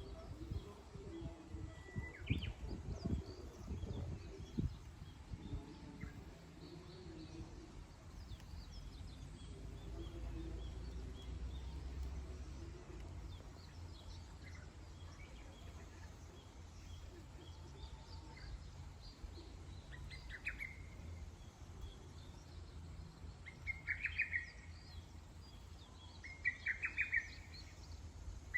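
Wild birds chirping: short trilled phrases that come every few seconds and grow louder near the end, over a steady low rumble. A few low thuds sound in the first few seconds.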